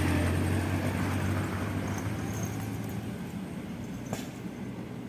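Heavy sand-laden truck's engine running with a low steady drone that fades away over the seconds as the truck pulls off. A single sharp click about four seconds in.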